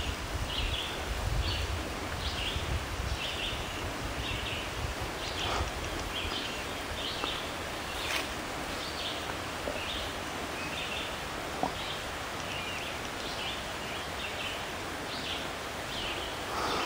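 Woodland ambience: a bird giving short high chirps over and over, about one or two a second, over a steady hiss of rustling leaves, with a low rumble in the first few seconds.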